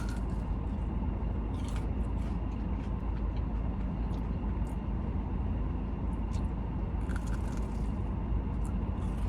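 Biting into and chewing a fried croqueta, with a few faint crunches of the crust, over a steady low rumble.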